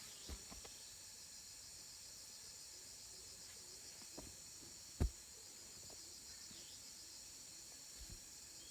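Steady high-pitched chirring of insects, finely pulsing, with a few dull thumps; the loudest thump comes about five seconds in.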